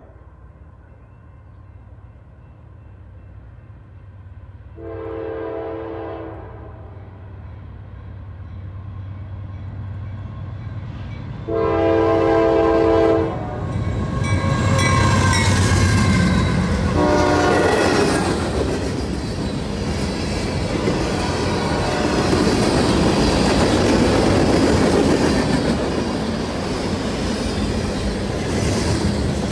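Norfolk Southern freight train approaching and passing: diesel locomotive engines rumbling low, and a multi-tone air horn sounding three blasts, the second the loudest and the third short. Then steady wheel and rail clatter as the cars roll by.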